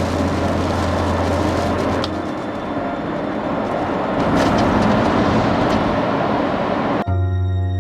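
Steady rushing noise of vehicles, loud and even, with a few faint clicks; it cuts off suddenly about seven seconds in.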